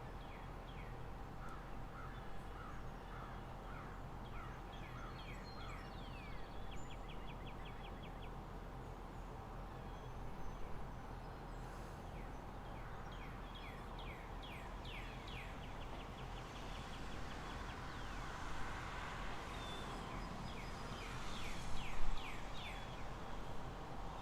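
Small birds chirping and trilling in quick repeated runs over a steady background hiss and hum. A louder passing whoosh swells near the end.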